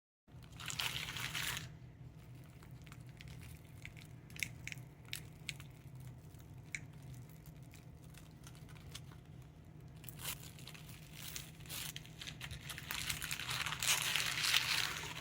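Packaging being opened and unwrapped by hand, crinkling and tearing. There is a burst of rustling just after the start, scattered light clicks and rustles through the middle, and a longer, louder stretch of crinkling in the last few seconds.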